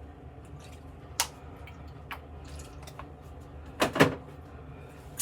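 A few clicks and knocks from a bottle of Thayer's lemon witch hazel toner being handled: a sharp click about a second in, faint ticks after it, and a louder double knock near the end.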